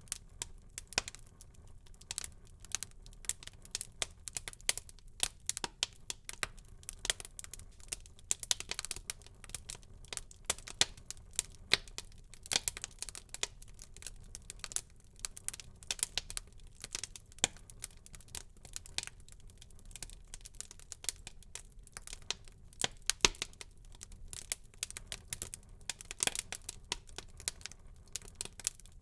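Wood fire burning in a fireplace: a steady run of irregular crackles and sharp pops over a faint low rush of flame, with brief flurries of denser crackling now and then.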